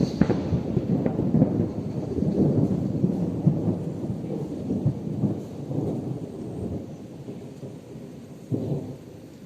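A long roll of thunder, crackling at first, then rumbling and slowly fading, with a brief louder rumble near the end.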